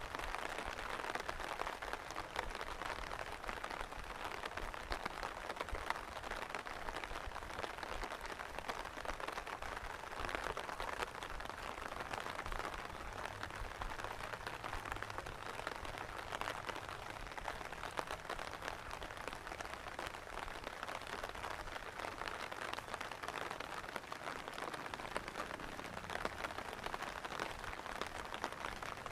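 Steady rain falling, a dense mass of small drop impacts blending into an even hiss.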